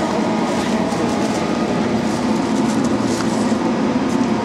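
A train moving slowly past close alongside a station platform, with a steady rumble and hum from its wheels and running gear.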